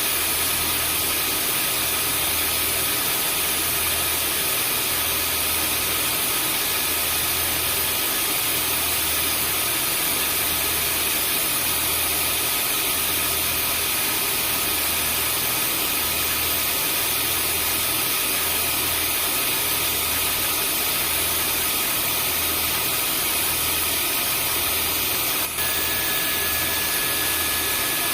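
Vacuum cleaner running steadily: a constant rushing hiss with a high motor whine over a low hum that throbs about once a second. About 25 seconds in there is a brief dropout, after which an extra steady tone joins the whine.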